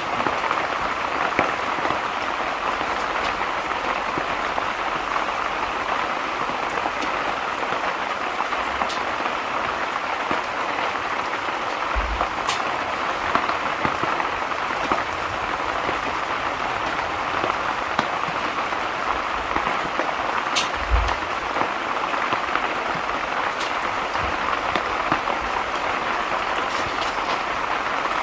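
Steady rain falling, with a few sharp crackles from a fire now and then.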